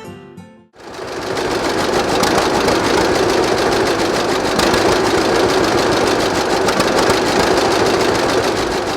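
An antique tractor engine running steadily with a rapid, even firing beat, cutting in suddenly about a second in as background music ends.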